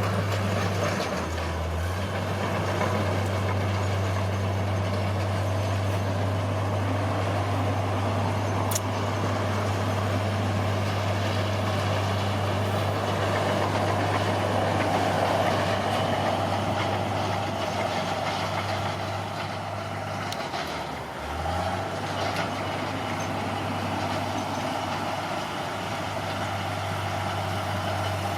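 Bulldozer's diesel engine running steadily while working. Its note drops briefly twice, about a second in and again about 21 seconds in.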